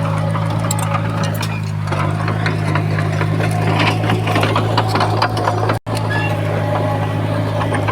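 Komatsu bulldozer's diesel engine running with a steady low hum, overlaid with irregular clanking and rattling as the machine works. The sound cuts out for an instant near the end.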